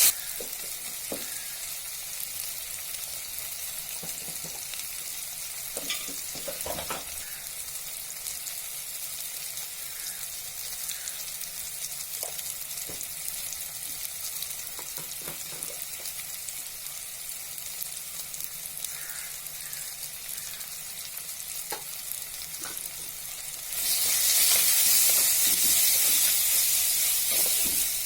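Aval upma sizzling in a pan while being stirred, a steady hiss with scattered clicks and scrapes of the spoon against the pan. The sizzle grows markedly louder near the end.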